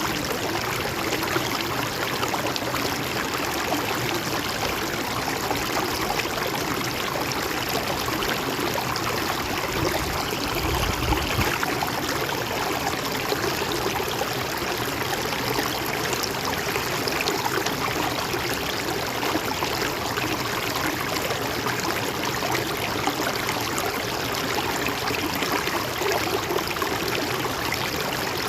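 Steady rush and trickle of a gently flowing river. There is a brief low rumble about ten seconds in.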